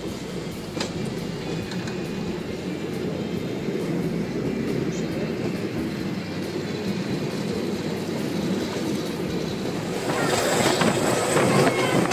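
Passenger train running along the track: a steady rumble and clatter of wheels on rails, growing louder and brighter about ten seconds in.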